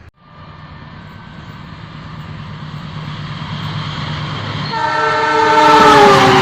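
Passenger train hauled by a diesel locomotive approaching, its rumble growing steadily louder. About five seconds in, the locomotive's horn sounds a loud chord of several notes, which drops in pitch as the train passes.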